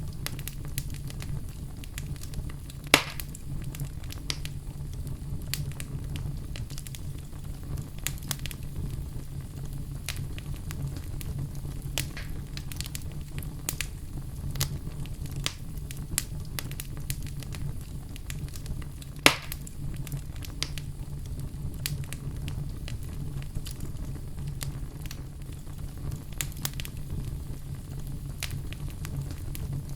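Wood fire crackling in a fireplace: a steady low rumble under frequent sharp pops and snaps, with two louder pops about three seconds and nineteen seconds in.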